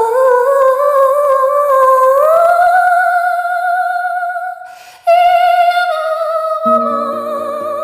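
A woman's voice humming long held notes with vibrato, stepping up in pitch, with a short break about five seconds in. Near the end a keyboard comes in underneath with repeated chords.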